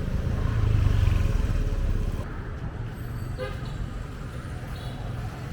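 Street traffic noise: a motor vehicle passes close by, its low rumble swelling and then fading over about two seconds. A short horn toot sounds a little past the middle.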